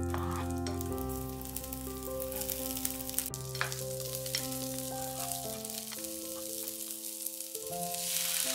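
Onion, carrot and red pepper sizzling in oil in a nonstick pan while being stirred with a spatula, with a few short scrapes. About eight seconds in the sizzle swells as beaten egg is poured into the hot pan. Soft background music with sustained notes plays underneath.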